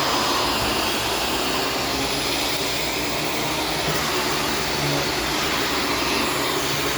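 Corded Shark Stratos vacuum cleaner running steadily in carpet mode, an even motor whoosh.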